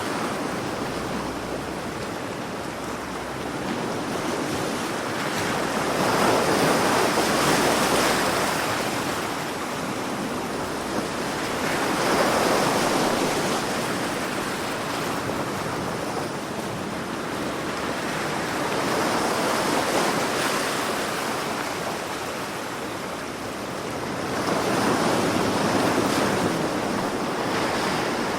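Sea waves breaking and washing in: a steady rush of surf that swells and falls back four times, about every six to seven seconds.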